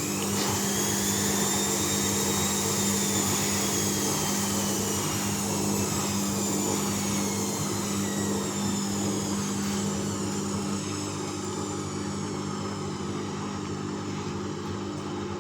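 Bauknecht WAS 1400 washing machine: a high motor whine that climbs quickly at the start, then sinks slowly and steadily as the drum winds down, over a steady low hum that stops about eleven seconds in.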